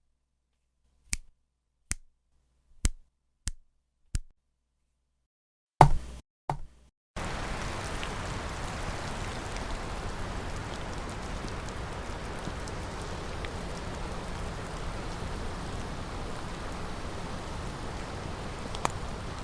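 Sound effects: five sharp knocks spaced unevenly over about three seconds, then two louder hits close together, then an even rushing hiss that holds steady to the end.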